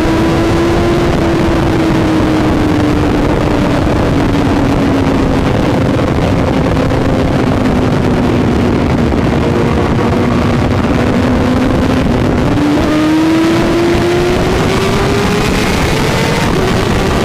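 Honda CBR1000RR-R superbike's inline-four engine held at high revs at speed, under heavy wind rush. Its pitch sinks slowly for most of the stretch, then rises again near the end as the bike accelerates.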